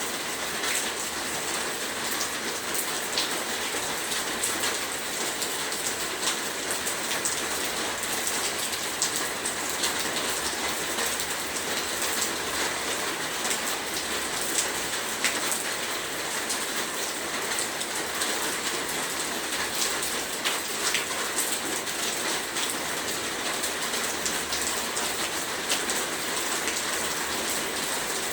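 Heavy rain falling steadily, a dense hiss with many individual drops ticking on a surface.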